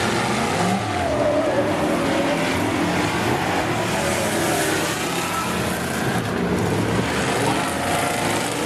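Engines of several demo race cars running hard together on a speedway oval, their pitches rising and falling as the drivers accelerate and lift.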